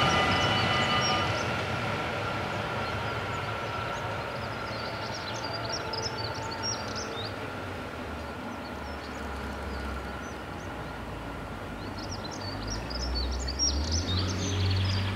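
Protos electric train receding from the level crossing, its running sound fading away over the first few seconds. Birds chirp, and near the end a low rumble builds up.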